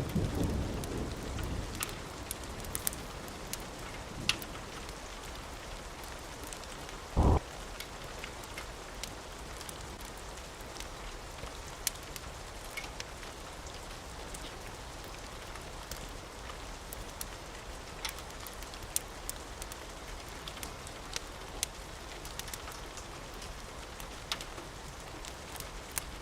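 Steady rain, with a thunder rumble dying away in the first couple of seconds. About seven seconds in comes a single short, loud low thump, and scattered sharp ticks sound throughout.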